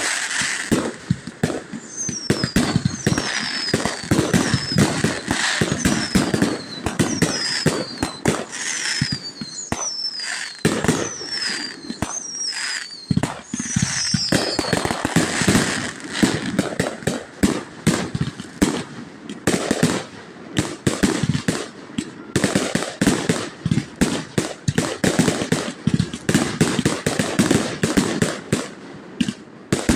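Fireworks display: a dense run of bangs, pops and crackles throughout. In the first half, high falling whistles repeat about once a second over them.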